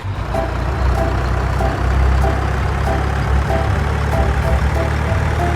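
Tractor engine running steadily at a low pitch, with short higher tones coming and going over it.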